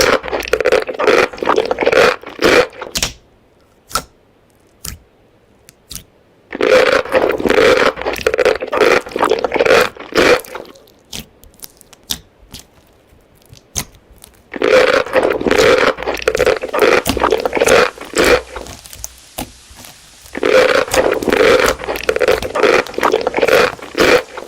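Close-miked chewing of crunchy food: four runs of rapid crunching of about four seconds each, with short pauses and a few single clicks between them.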